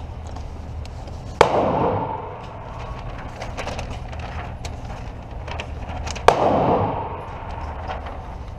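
Two close gunshots about five seconds apart, each trailing off in an echo, with fainter shots from other shooters cracking in between.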